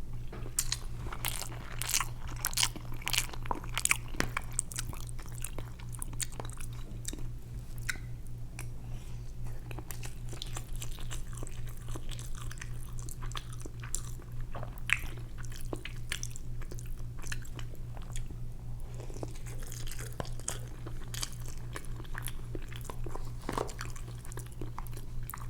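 Close-miked eating sounds: a person chewing and biting food, with many short wet clicks of the mouth, densest in the first few seconds. A steady low hum runs underneath.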